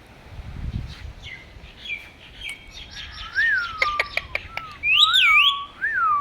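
Parrot chirping and whistling: a run of short chirps, then several rising-and-falling whistles from about three seconds in, with a few sharp clicks around the four-second mark.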